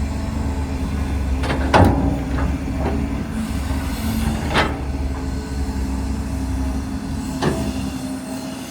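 Heavy diesel construction machinery running steadily, with sharp metal clanks: a cluster about two seconds in, then single ones at about four and a half and seven and a half seconds. The low engine drone fades near the end.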